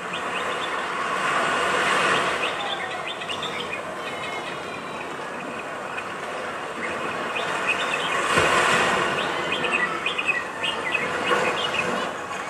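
Birds chirping over a steady rushing noise that swells twice, about two seconds in and again near eight seconds.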